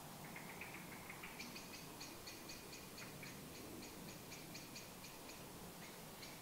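A bird calling: a rapid series of short, high ticking notes, about four to five a second, with a brief pause near the end.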